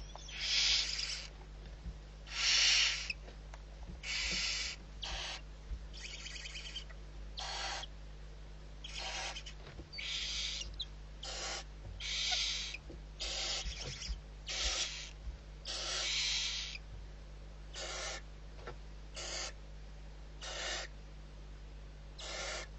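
Barn owl giving a long series of short, breathy hisses, about one a second, some with a rattling texture.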